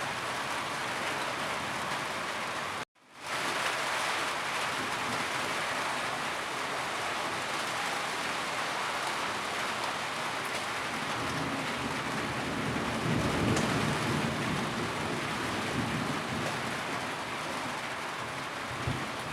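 Heavy rain falling steadily, with a low rumble swelling about two-thirds of the way through. The sound cuts out for an instant about three seconds in, then fades back up.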